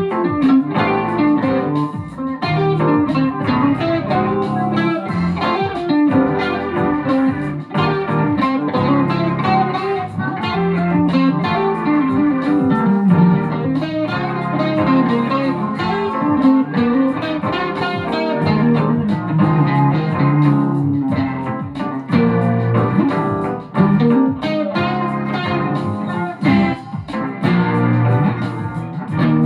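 Guitar music: plucked guitar notes playing a continuous run of changing notes, with lower notes underneath.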